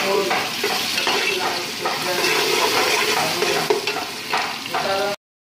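Garlic sizzling in hot oil in a stainless steel pot while a metal spoon stirs it, scraping against the pot. The sound cuts off abruptly just before the end.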